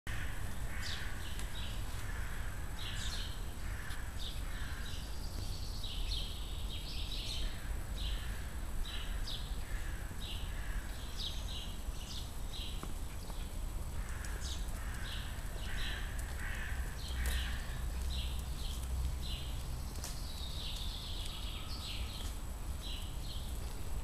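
Birds calling over and over in short, high calls, with a steady low rumble underneath.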